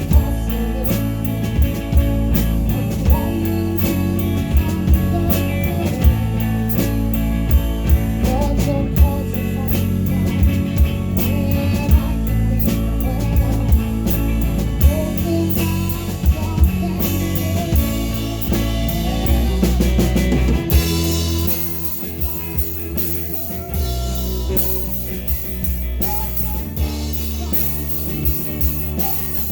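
Live rock band playing: a drum kit keeps a steady beat under electric guitars and bass. About twenty seconds in, the deep bass thins out and cymbal wash comes up.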